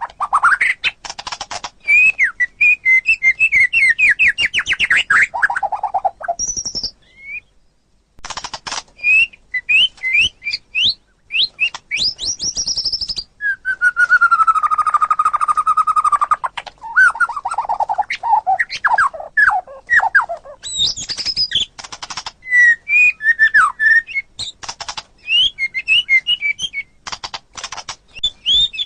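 White-rumped shama (murai batu) singing a varied, fast song of rapid note series, rattling chatter and sweeping whistled notes, with one long held whistle about halfway through and a brief pause near a quarter of the way in.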